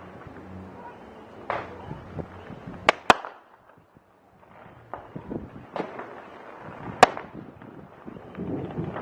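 Fireworks bursting overhead: two sharp cracks in quick succession about three seconds in and another near seven seconds, with duller booms between them over a steady background hiss.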